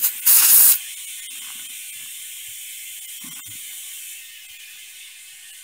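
An air chuck on a frozen tire valve stem: two loud bursts of escaping air about a second apart as it is pressed on, then a steady hiss of air flowing into the tire.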